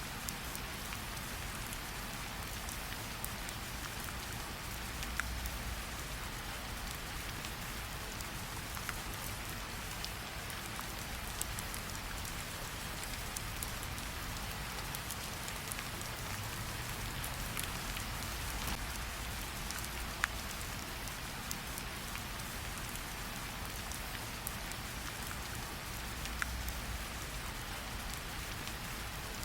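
Steady rain falling, an even hiss, with a sharp crackle from a campfire every few seconds.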